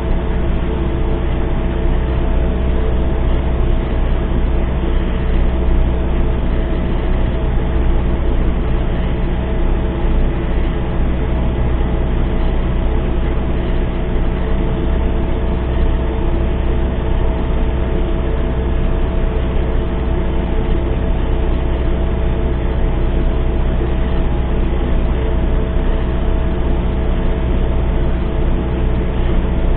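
Belarus MTZ-892 tractor's four-cylinder diesel engine running at a steady speed, a loud low rumble with steady tones that hold without change.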